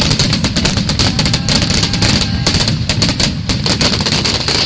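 Fireworks finale barrage: many shells bursting in rapid, overlapping succession, heard at close range, with a steady high hiss beneath the bangs.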